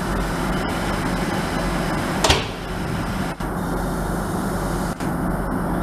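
A train's steady low engine rumble, with one sharp click about two seconds in.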